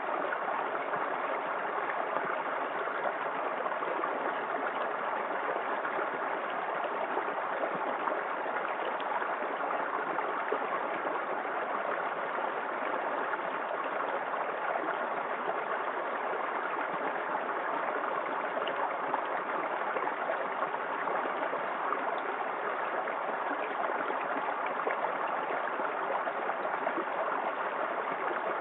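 Small waterfall in a forest creek, water splashing and running steadily.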